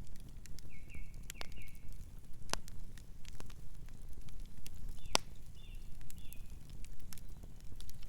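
Campfire crackling: scattered sharp pops and snaps over a low steady rumble, the sharpest pops about two and a half and five seconds in. Short runs of soft high chirps from a night bird come near the start and again around the middle.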